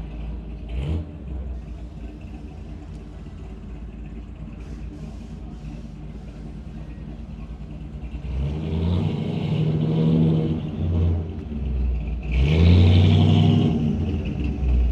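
Engine of a 1961 Chevrolet Impala Super Sport running at a steady idle, then revving up twice over the last several seconds, each rev rising in pitch before settling back.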